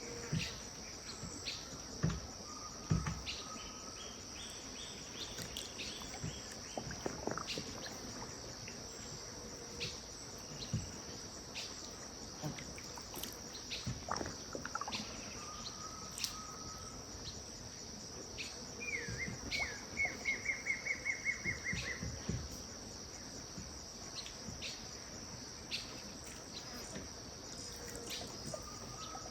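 Evening wetland ambience: a steady high insect chorus with scattered bird calls over it. About two-thirds of the way through, a bird gives a rapid run of about a dozen repeated notes, the loudest sound here, and a couple of low thumps come in the first few seconds.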